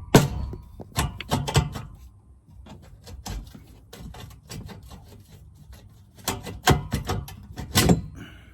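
A Dodge Charger Scat Pack's factory exhaust tip being tugged and worked loose from the tailpipe: a run of sharp knocks and clatters in two bunches, at the start and again near the end, with quieter handling between.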